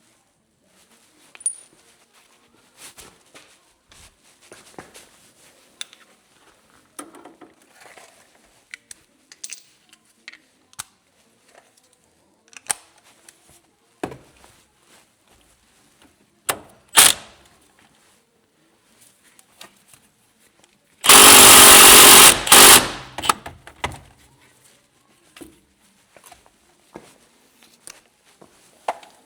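Scattered clicks and knocks of tools and metal parts being handled, then a power tool runs in one loud burst of about two seconds, with a short break, two-thirds of the way in, while a coilover is being reassembled.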